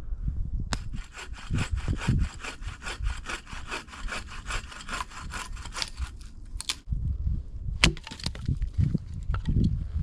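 Hand saw cutting through wood in even strokes, about four a second, for roughly five seconds, followed by a single sharp crack about eight seconds in.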